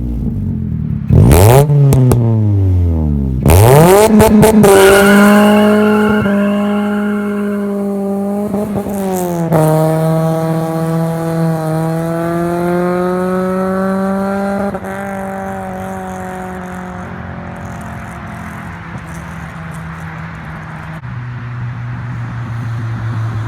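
Honda Accord CB7 four-cylinder engine through a full straight-pipe stainless exhaust. It is revved in quick blips with a couple of sharp pops, then pulls up through the gears, the note climbing in each gear with a shift about nine seconds in. It eases to a lower steady note near the end.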